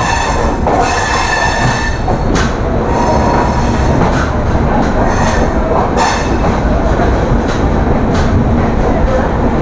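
Passenger train coaches rolling slowly into a station, heard from the open coach door: a steady rumble of wheels on rails with a high squeal as the train brakes, strongest in the first couple of seconds, and scattered clacks over rail joints.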